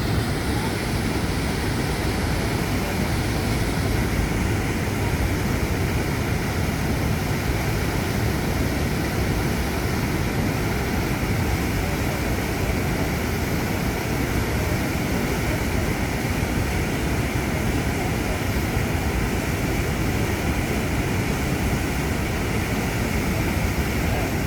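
Ohiopyle Falls on the Youghiogheny River: a steady, loud rush of falling water.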